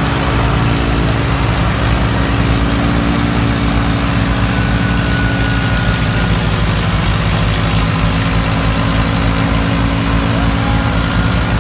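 Swaraj tractor's diesel engine running steadily, with a fast, even low beat.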